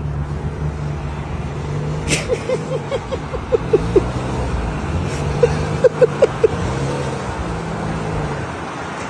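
Motorcycle engine running steadily, its pitch dipping and climbing again twice as the revs change. Two runs of short, quick chirps sound over it partway through.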